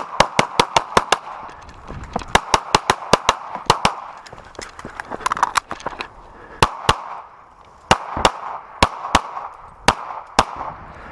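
Gunshots from a practical-shooting stage run: a quick string of about seven shots in the first second, another fast string about two seconds in, then shots in pairs and singles with pauses between them for the rest.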